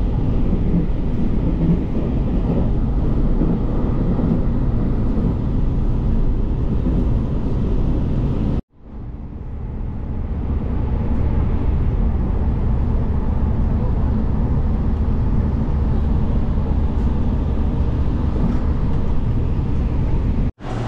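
Steady low rumble of a local electric train running on the JR Tokaido Line, heard from inside the carriage. The sound cuts out abruptly about nine seconds in, then fades back up, and cuts out once more near the end.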